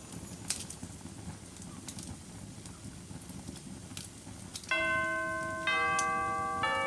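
Wood fire in a fireplace crackling, with scattered sharp pops. About two thirds of the way in, ringing bell-like chime tones of background music start, struck about once a second and each left to ring out.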